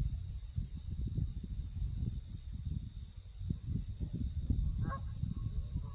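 Outdoor walking ambience: a fluctuating low rumble of wind on the microphone over a steady high insect drone that pulses on and off about once a second. Near the end comes a short honk-like bird call.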